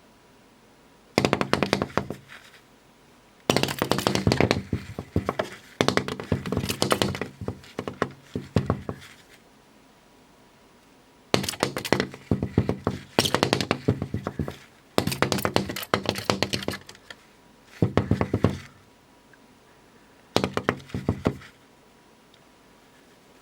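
Brown-eared bulbul pecking and striking at its reflection in a one-way mirror window: about eight bursts of rapid knocks on the glass, each a second or two long, with short pauses between.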